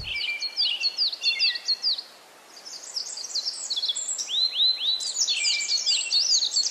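Small birds chirping, many quick high notes overlapping, with a brief lull about two seconds in and a few longer arching whistles halfway through.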